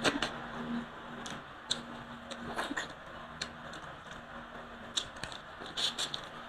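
Close-miked chewing of a hand-fed mouthful of rice and fried fish, with irregular wet mouth clicks and lip smacks.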